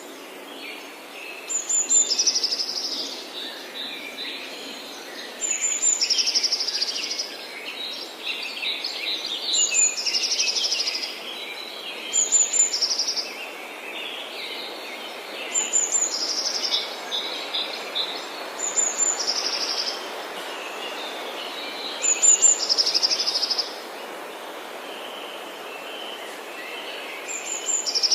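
Forest birdsong: one bird repeats a short song, a high sharp note followed by a quick trill, about every three to four seconds, over other birds chirping and a steady hiss.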